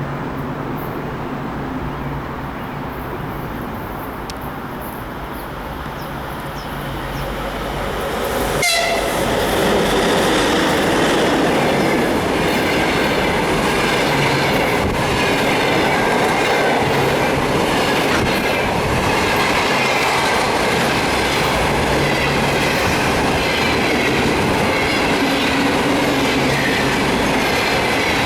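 EP2K electric locomotive hauling a passenger train, approaching and then rushing past about eight seconds in with a quick falling pitch. Its coaches then roll by with steady running noise and rhythmic wheel clatter over rail joints.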